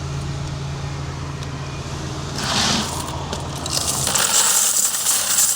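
Coins pouring and rattling out of a car wash coin box: a short pour about two and a half seconds in and a longer one near the end, over a steady low hum.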